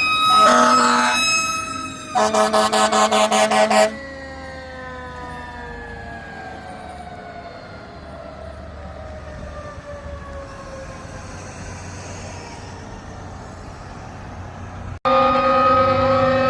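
Fire truck warning devices: a loud steady horn-like blast, then about two seconds of rapid pulsing, then a siren winding down, falling slowly in pitch and fading over about eleven seconds. Near the end, after an abrupt break, a loud steady horn-like tone starts again.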